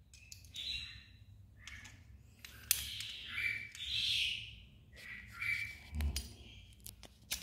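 Small birds chirping now and then in the background, with a few light, sharp metal clicks from the gold-plated S.T. Dupont Ligne lighter being handled and closed back up.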